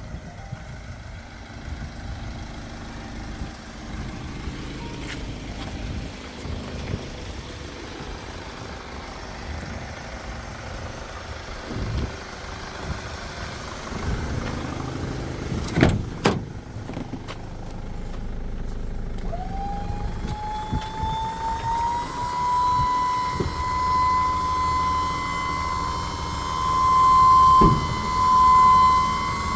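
Vauxhall Movano van's 2.3-litre diesel engine running with a low rumble, with a few sharp knocks, the loudest about halfway through. In the second half a whine rises and then holds at a steady high pitch, and the sound swells louder in waves near the end.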